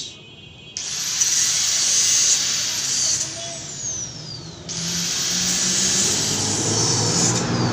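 Haojue DR160 motorcycle's single-cylinder engine running at idle on its fresh engine oil, a steady low rumble, with a loud hiss that starts suddenly about a second in, eases in the middle and comes back.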